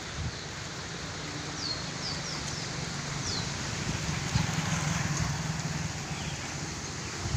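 Storm wind with approaching rain, a steady hiss that grows slightly louder. A few short, falling bird chirps come through in the first half.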